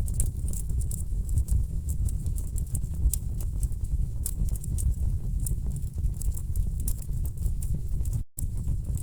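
Wood fire crackling in a fireplace: frequent sharp pops and snaps from the burning logs over a steady low rumble. The sound drops out for a moment about eight seconds in.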